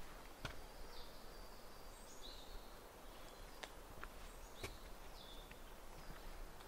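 A small bird giving short, high calls that step down in pitch, about four times, over quiet woodland ambience. A few faint footsteps sound on the trail.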